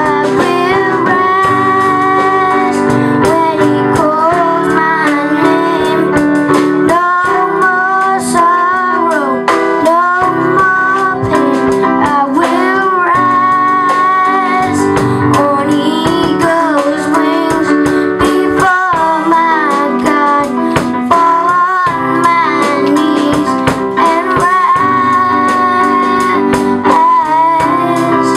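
A song sung by singing voices over a strummed guitar accompaniment.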